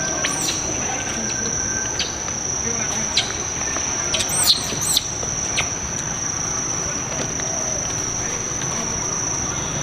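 Steady high-pitched insect drone holding one pitch throughout. A few short high calls and clicks sound about four to five seconds in.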